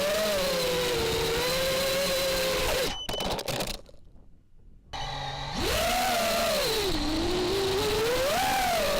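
FPV racing quadcopter's brushless motors and propellers whining, the pitch rising and falling with throttle. About three seconds in the whine breaks off with a few clicks and the sound drops almost to silence for roughly two seconds. It then comes back and swoops up and down again.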